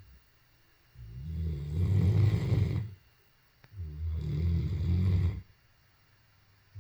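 Great Dane snoring: two deep snores about a second apart, each lasting about two seconds.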